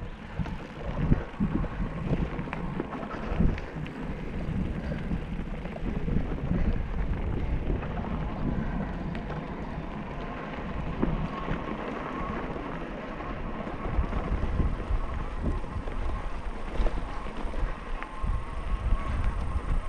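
Wind buffeting the microphone over the rumble and rattle of a bicycle riding a dirt trail, with frequent short knocks from bumps.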